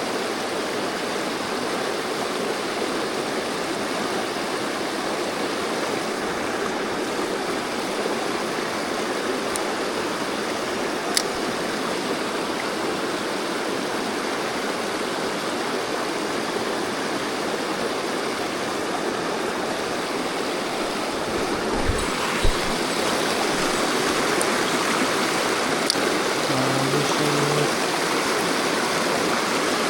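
Mountain stream rushing steadily over rocks. A sharp click comes about eleven seconds in, and two short knocks come a little past the middle, after which the rushing is slightly louder.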